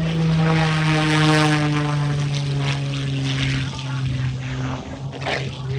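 Propeller airplane passing low and fast, its engine drone loudest about a second in and then slowly falling in pitch as it moves away.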